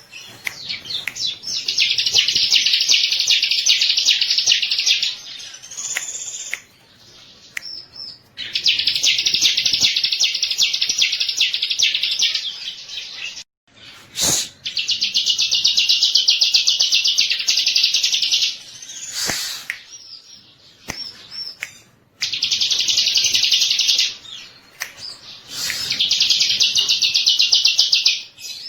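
Bar-winged prinia (ciblek) song: long, loud bouts of very fast, high, rattling trills, each lasting a few seconds, broken by short pauses with a few sharp single notes between them.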